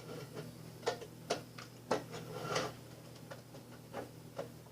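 Irregular light clicks and taps, about eight in a few seconds with one short scrape near the middle, over the steady low hum of a window fan.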